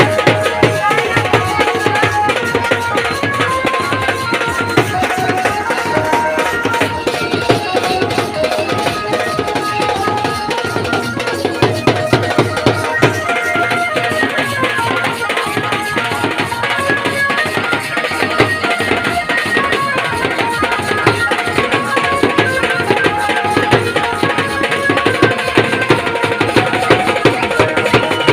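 Instrumental Indian song played on banjo in quick short notes over a fast tabla and drum rhythm.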